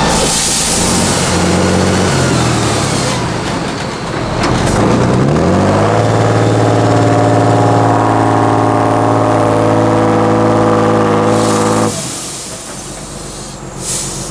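Tatra 8x8 truck's turbo-diesel engine working off-road. It eases off, then revs up about four seconds in and holds high and steady for around six seconds before dropping off sharply. Short bursts of hiss come at the start and near the end.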